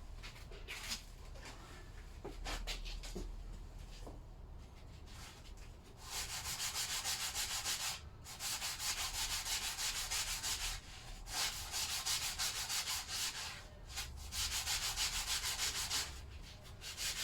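Hand sanding with a spongy sanding block on a metal engine sealing surface, rubbing off paint: quiet handling at first, then runs of quick back-and-forth strokes, about four or five a second, broken by brief pauses.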